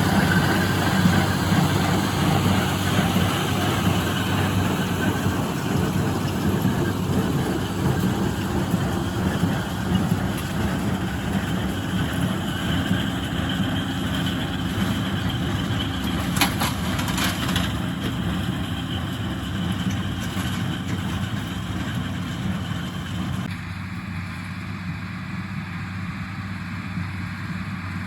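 1977 International Harvester 886 tractor's six-cylinder diesel engine running steadily under load while pulling a John Deere 348 small square baler, with a few short clicks in the middle. The higher part of the sound falls away about three-quarters of the way through.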